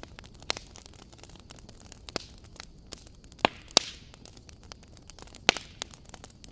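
Fireplace fire crackling: scattered sharp snaps and pops over a soft hiss, with a few louder pops a little past the middle and one near the end.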